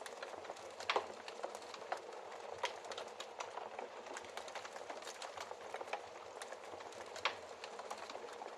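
Wood fire burning in a fireplace, crackling steadily over a soft hiss, with a few sharper pops, the loudest about a second in and another near the end.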